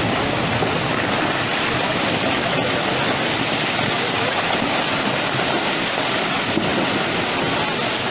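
Fast-flowing floodwater rushing steadily, a loud, unbroken wash of water noise.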